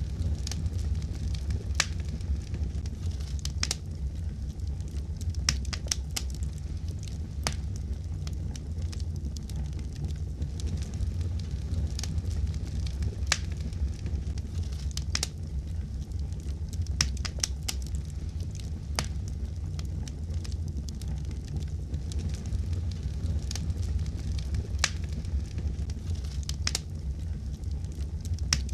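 Wood fire crackling in a fireplace: a steady low rumble of flame with frequent sharp, irregular pops and snaps.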